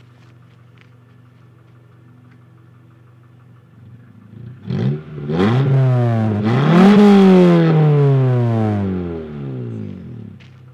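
2000 Honda Civic Si's B16 four-cylinder VTEC engine, its muffler removed, idling steadily and then revved. A quick blip about four and a half seconds in is followed by a second and a higher, louder third rev, which falls slowly back to idle near the end.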